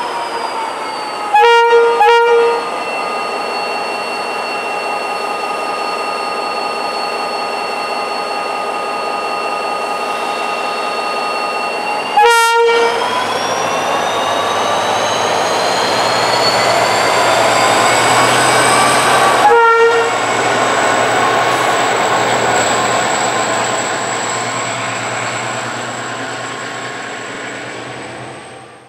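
Irish Rail diesel freight locomotive hauling a container liner: a steady engine and turbo whine that dips at first, then climbs in pitch around the middle and holds, as the locomotive sounds short horn blasts, two close together near the start and single ones about halfway and two-thirds through.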